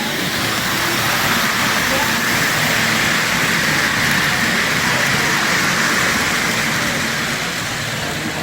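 Steady hubbub of an indoor crowd, many voices blending into one noise, over the running of Lionel model trains on the display layout.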